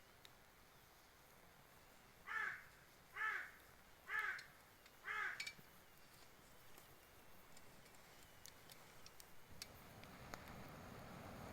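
A crow cawing four times, about one call a second, each call short and harsh. Faint scattered ticks and a low rushing haze that swells near the end, likely the wood fire crackling and flaring.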